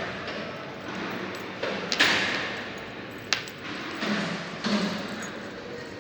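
A few knocks and thuds. The loudest, about two seconds in, trails off in a rustling noise; a sharp click and two softer thumps follow.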